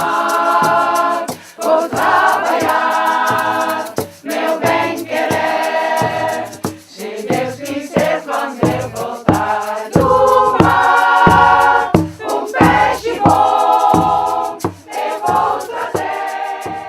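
Choir singing in phrases of held notes, with low accompaniment beneath.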